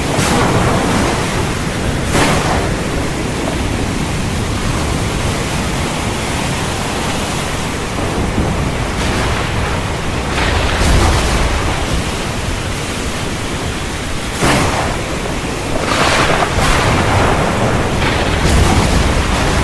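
Heavy rain pouring down steadily in a thunderstorm, with low thunder rumbling up a few times, around the middle and again near the end.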